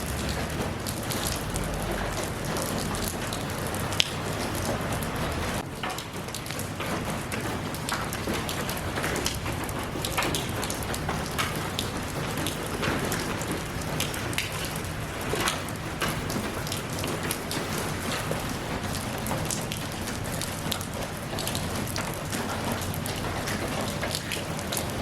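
Steady rain falling, with many separate drops ticking close by; one sharper tick about four seconds in.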